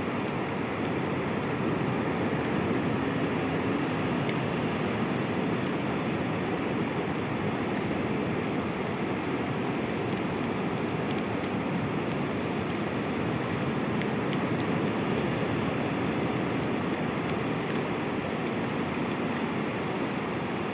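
Steady roar of sea surf, waves washing in without pause, with faint scattered high ticks over it.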